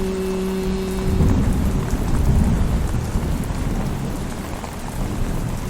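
Steady rain, with a low roll of thunder swelling about a second in and rumbling for a couple of seconds. A held final note of a man's Quran recitation fades out at the start.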